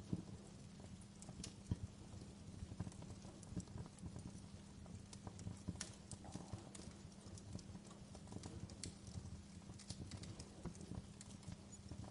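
Wood fire crackling, with irregular small pops and snaps over a low, steady rumble of burning.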